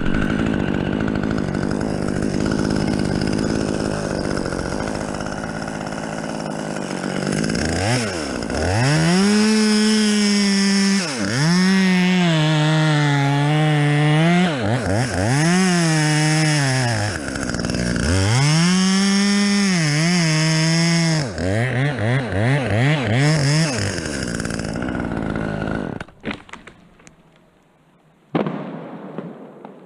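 Chainsaw idling, then revved to full throttle and cutting into a fir log, its pitch sagging and recovering several times as the chain bites. Near the end it drops back to idle and shuts off.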